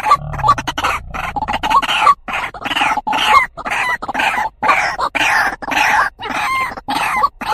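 White-breasted waterhen (truwok, ruak-ruak) calling: a fast, unbroken run of short, loud repeated notes, about two to three a second.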